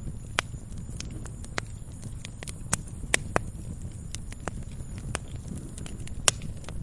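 Wood fire crackling: irregular sharp pops and snaps over a steady low rumble, with the loudest snaps about three seconds in and again near the end.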